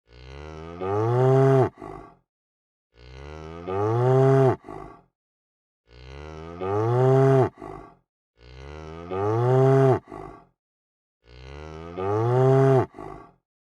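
Cow mooing: the same moo repeated five times, about every three seconds. Each call starts softer, swells louder and ends with a short brief tail, with dead silence between calls.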